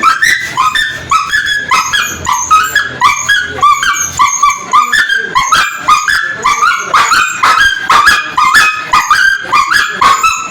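Dog crying in a rapid, unbroken series of short high-pitched yelps and whimpers, about three a second, many falling in pitch.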